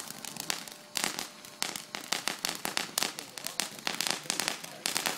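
Ground fountain fireworks crackling: a dense run of sharp, irregular pops and snaps, several a second.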